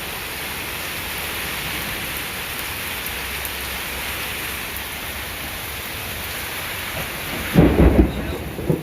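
Heavy rain falling steadily, then a sudden loud low rumble of thunder near the end.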